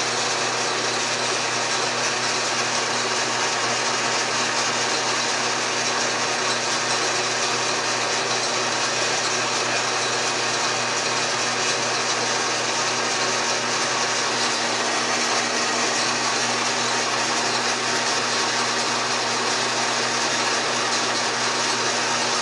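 South Bend 16 x 72 metal lathe running steadily, its motor and drive giving an even hum.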